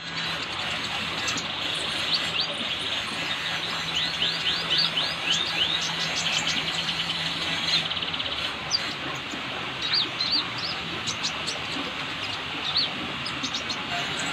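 Sunbird (called 'kolibri' in Indonesia) chirping in quick series of high, thin notes that slide sharply in pitch, over a steady hiss and a low hum.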